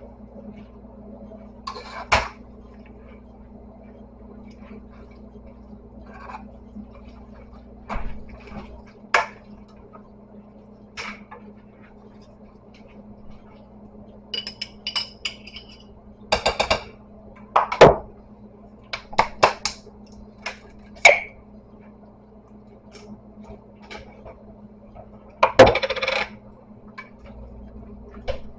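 Scattered clinks and knocks of kitchen utensils and cookware, with a cluster of ringing metallic clinks about halfway through and the loudest knocks near the end, over a steady low hum.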